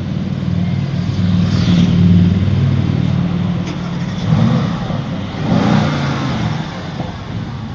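Mercedes-AMG GT's twin-turbo 4.0-litre V8 running at a standstill and being revved, swelling to a peak about two seconds in, with two shorter blips later.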